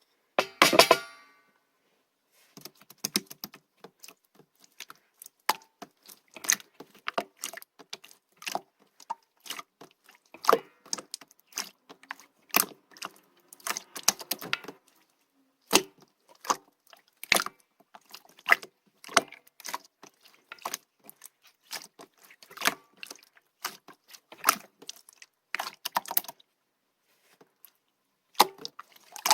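Opaque slime being squeezed and pressed by hand, giving irregular sticky clicks and pops in quick runs, with a few short pauses.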